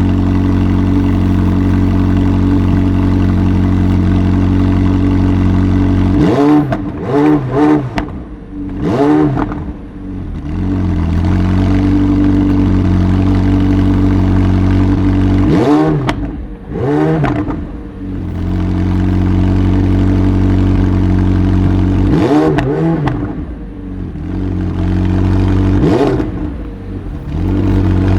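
McLaren 720S twin-turbo V8 idling steadily, blipped in four short groups of quick revs that rise and drop straight back to idle. The revs are held low by the car's stationary rev limiter.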